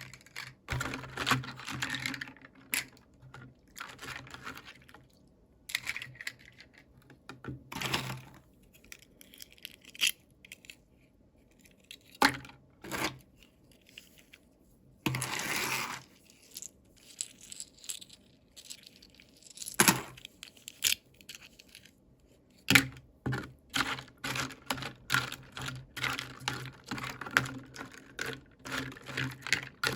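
Toy packaging being handled and opened by hand: irregular clicks, taps and crinkles of plastic and paper, with a longer tearing sound about halfway through.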